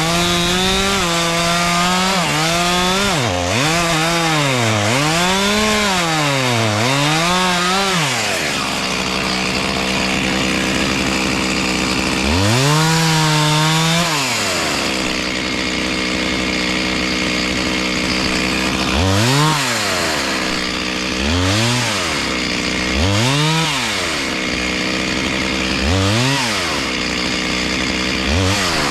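Two-stroke chainsaw running: held at high revs at first, then revved up and down several times. It drops to idle, runs high again for a couple of seconds, and idles with short throttle blips about every two seconds.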